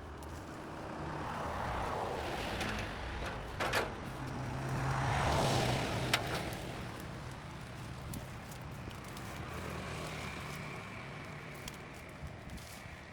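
Road traffic passing close by: a vehicle's noise swells, peaks about five seconds in and slowly fades, over a steady low engine hum, with a couple of sharp clicks.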